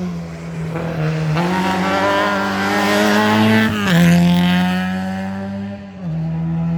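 Historic rally car's engine at full throttle, its note climbing slowly and then dropping sharply at an upshift about four seconds in; loudest just after the gear change.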